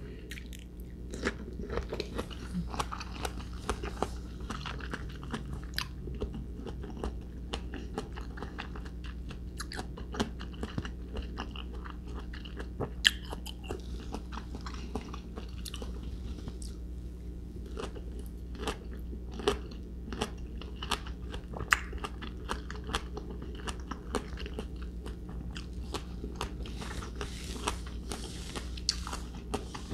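Close-miked biting and chewing of crisp persimmon slices: many irregular wet crunches and clicks, over a steady low hum.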